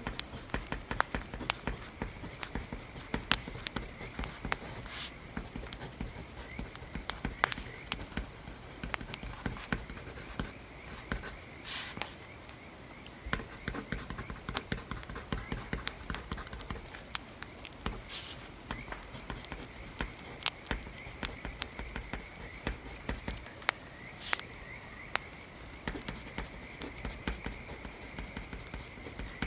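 Wood fire crackling, with frequent irregular sharp pops, under the scratch of writing on paper.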